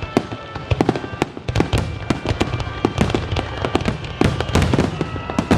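Aerial fireworks shells bursting in rapid succession, several sharp bangs a second with crackling between, over background music.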